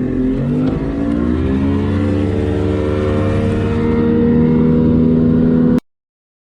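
Boat outboard motor accelerating, its pitch rising over the first two or three seconds, then running steady at speed; the sound cuts off suddenly near the end.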